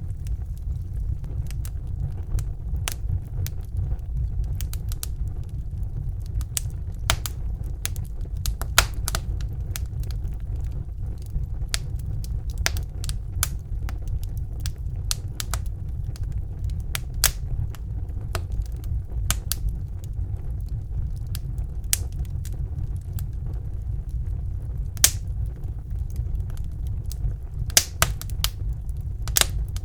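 Wood fire burning in a fireplace: a steady low rumble of the flames with irregular sharp crackles and pops, a few louder snaps scattered through.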